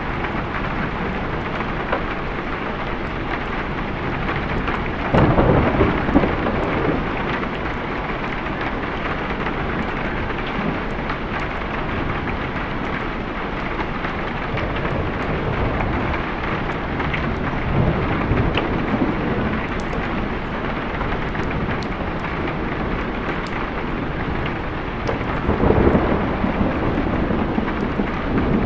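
Steady heavy rain with thunder rumbling twice, about five seconds in and again near the end.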